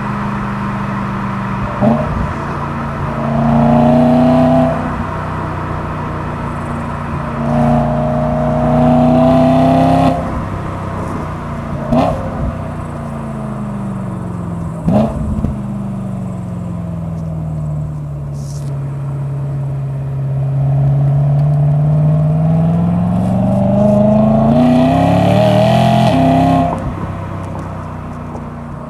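BMW E92 M3's naturally aspirated S65 4.0-litre V8 through an M Performance exhaust, revving up in short pulls with the pitch dropping at gear changes marked by sharp cracks. Then it drops slowly in revs and climbs in one long rise before fading near the end.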